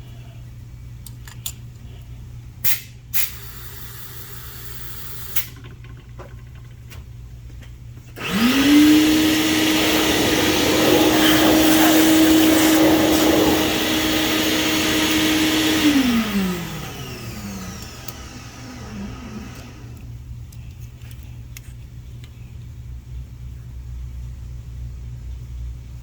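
A few sharp clicks, then a high-speed electric motor spins up about eight seconds in, runs at a steady whine with a loud rushing noise for about eight seconds, and winds down with a falling pitch.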